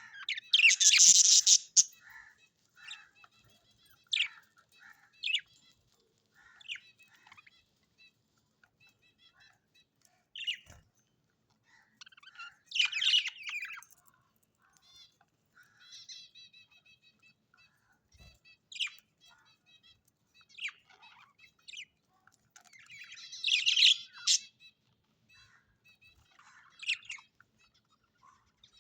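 Birds calling: short chirps and rapid chattering trills, broken three times by louder, harsh squawks about a second in, halfway through and near the end.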